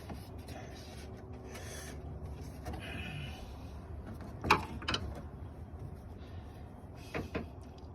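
Scattered knocks and clinks of hand tools and parts in a car's engine bay during removal of the radiator fan assembly, the sharpest knock about four and a half seconds in, with smaller ones just before five seconds and around seven seconds.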